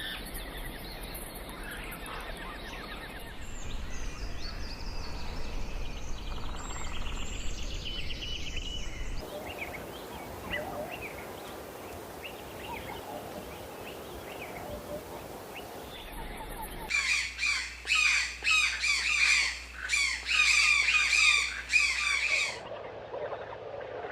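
Outdoor morning ambience of mixed birdsong, with chirps and calls over a background hiss. Its character changes abruptly twice. Near the end, a bird gives a quick series of loud, harsh, repeated squawks for about five seconds.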